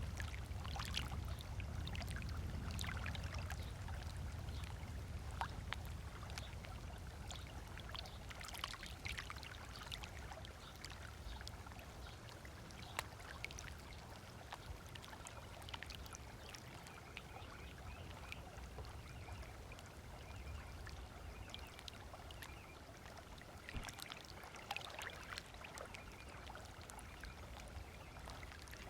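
Small waves lapping against the lake shore in irregular little splashes, over a low rumble that fades away during the first few seconds.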